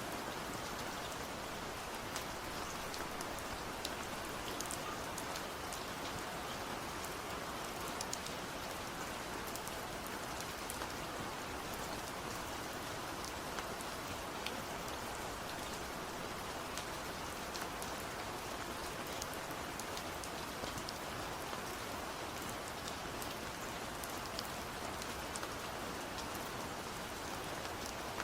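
Steady rain falling, a constant patter with many small drop ticks on a surface.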